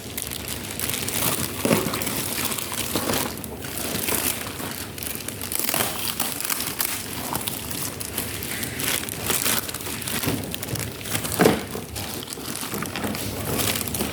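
Parcel packaging crinkling and rustling continuously as it is opened and handled, with irregular crackles.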